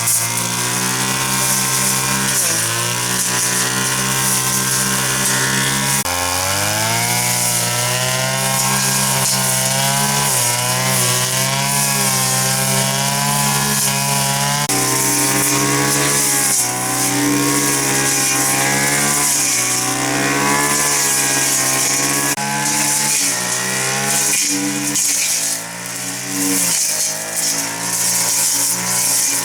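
Chainsaw running and cutting wood, its engine note holding steady for stretches and then rising and falling as it works through the cut.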